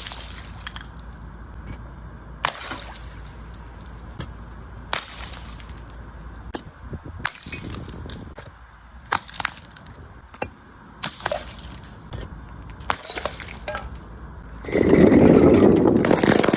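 A series of sharp, separate cracks and clinks like something brittle breaking, scattered irregularly over a low steady hum. About fifteen seconds in, a much louder, continuous stretch of noise begins and lasts to the end.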